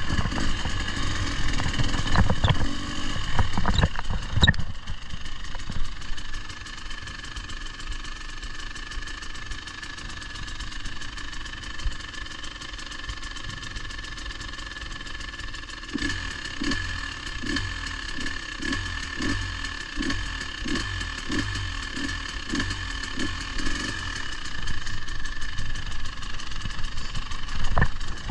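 Off-road vehicle engine running, louder with some knocks and clatter in the first few seconds, then steadier and quieter. About halfway through a regular low thump comes in, about one and a half times a second.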